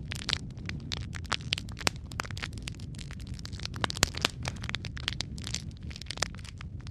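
Wood fire burning in a fireplace: a steady low rumble of flames under a continual irregular crackle of sharp pops, one louder pop about four seconds in.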